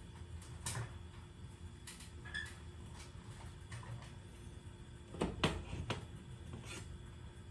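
Scattered clinks and knocks of metal hardware and tools being handled, with a quick cluster of sharper knocks about five seconds in, over a steady low hum.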